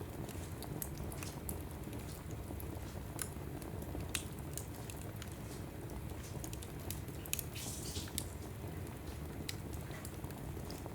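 Logs burning in a fireplace: irregular sharp crackles and pops over a steady low rumble of the fire, with a brief hiss about eight seconds in.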